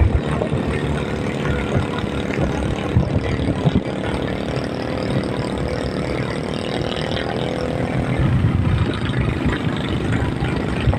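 Vehicle engine and road noise while driving. An engine note climbs a little in the middle and drops away about eight seconds in.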